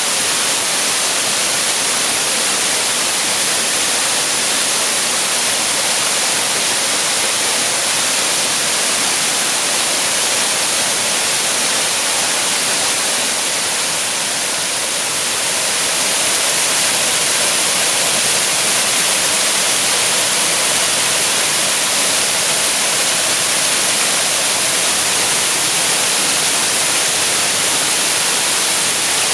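Waterfall pouring steadily, a dense hiss of falling water that dips slightly about halfway through.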